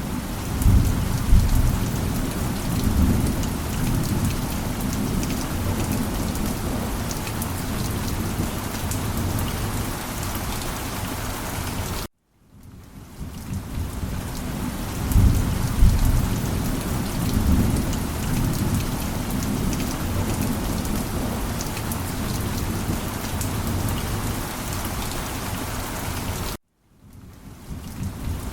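Steady rain with low rolling thunder rumbles. The sound cuts out abruptly twice, about twelve seconds in and near the end, and fades back in each time, with the thunder rumbles returning at the same point after each restart.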